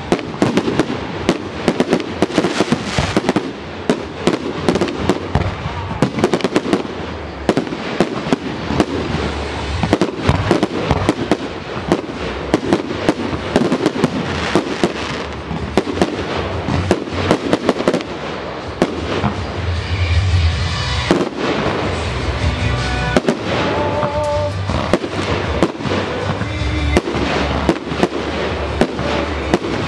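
Fireworks display in full barrage: shells and comets launching and bursting in rapid succession, many sharp bangs a second over continuous crackle, with heavier low booms around two-thirds of the way through.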